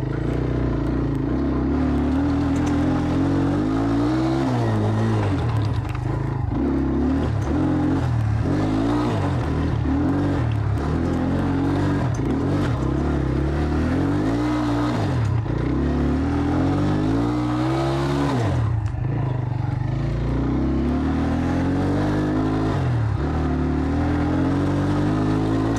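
A Jawa 125 Dakar motorcycle's engine being ridden off-road, its pitch rising and falling over and over as the throttle is opened and closed and the gears are changed.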